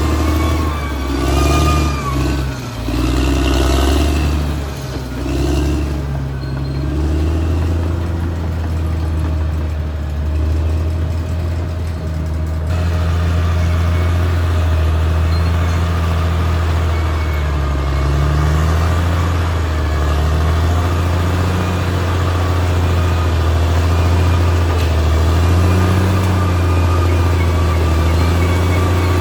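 Diesel engine of a Caterpillar D6R XL crawler bulldozer running under load. Its pitch rises and falls over the first few seconds, then it settles into a steady, loud drone.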